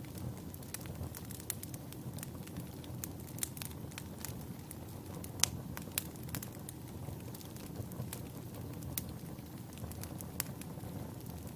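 Wood fire of burning logs crackling, a low steady rumble of flame under frequent sharp pops and snaps, the loudest about five and a half seconds in.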